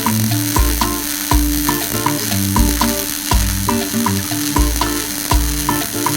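A steady crackling, frying-like hiss from a welding arc, under background music with a stepping bass line and a regular beat.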